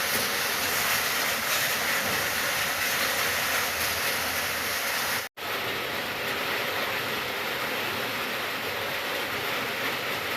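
Steady rain falling, an even hiss with no distinct drops or thunder. About five seconds in, the sound cuts out for a split second and then resumes at a slightly lower level, as at an edit or loop join.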